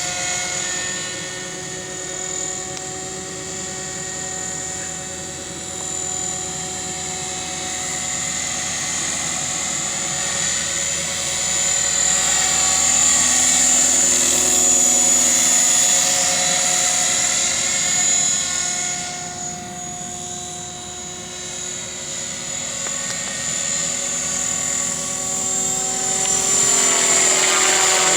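Align T-Rex 600 RC helicopter in flight, its rotors and drivetrain making a steady high-pitched whine. The whine swells and fades as the helicopter moves closer and farther away, dipping briefly past the middle and growing loud again near the end.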